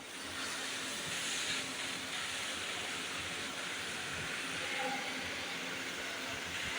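Steady faint background hiss with no distinct event.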